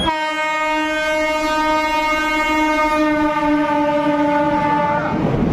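Air horn of an Indian Railways WAP-4 electric locomotive sounding one long steady blast as the express runs through the station, cutting off about five seconds in. The rumble of the passing train runs underneath.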